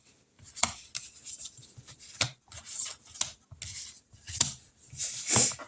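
Paper rustling with soft clicks and taps from handling cash envelopes and savings-challenge sheets, in short irregular bursts.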